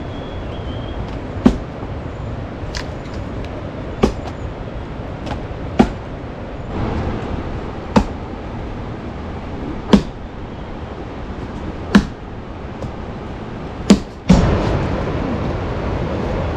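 Sharp knocks or strikes at a slow, even pace, about one every two seconds, over a steady background hiss; shortly before the end a louder, sustained rush of noise comes in.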